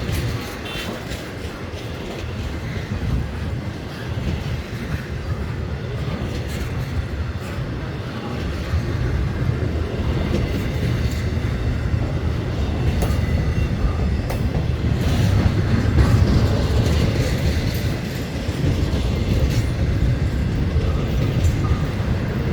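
A train passing on the tracks: a steady rumble of wheels on rail with clicking over the rail joints. It grows louder, peaking about sixteen seconds in.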